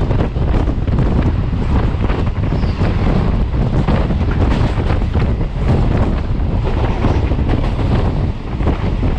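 Wind buffeting the microphone over the rumble and rapid wheel clatter of a long Indian Railways passenger train with blue coaches passing close alongside, heard from the open door of another moving train.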